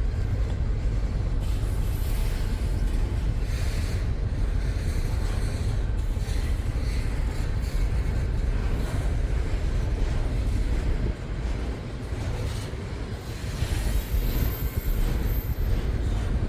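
Freight train rolling past, a steady heavy rumble of railcars on the track that eases off somewhat about eleven seconds in.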